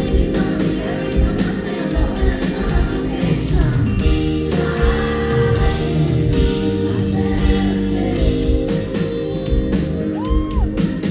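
Live pop song performed by a band with drums and guitar and a lead singer, in a large hall.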